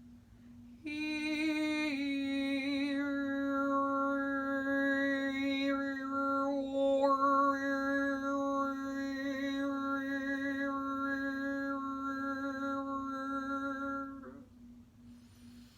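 A woman's voice singing one long, wordless held note in overtone (polyphonic) style, the upper overtones shifting and brightening while the base pitch stays steady. It starts about a second in and stops at about 14 s, over a fainter steady low tone, with what may be a breath near the end.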